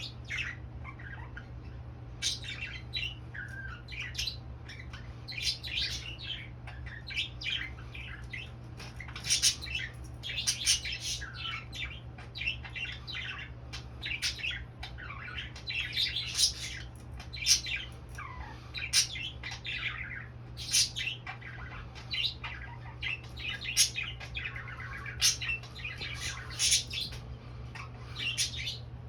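Pet budgerigars chattering, with short squawks and chirps following one another every second or so. A steady low hum runs underneath.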